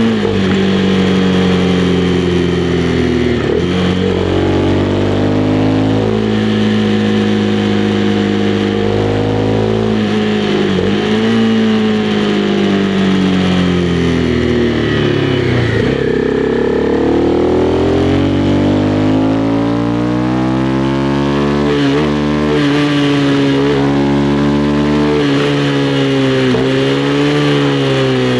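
Honda CB300R's single-cylinder engine on the move, its revs falling and rising through several gear changes, with one long steady climb in pitch partway through.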